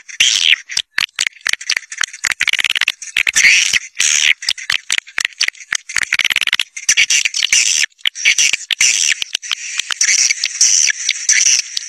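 A flock of swiftlets twittering: dense, rapid high chirps and clicks overlapping without pause. This is a swiftlet-caller recording of the kind played to lure swiftlets into a nesting house.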